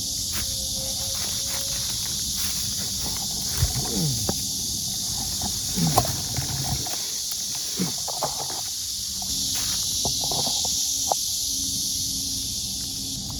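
Scattered cracks and clicks of someone moving through dry undergrowth, over a steady high hiss. A few short falling sounds come about a third of the way in and near the middle; the loudest is a sharp crack at about the middle.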